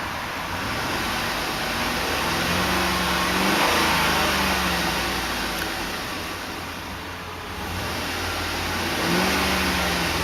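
2008 Chevrolet Tahoe's 5.3-litre Vortec V8 revved from idle, its pitch climbing and falling back a few seconds in, then rising again in a second rev near the end.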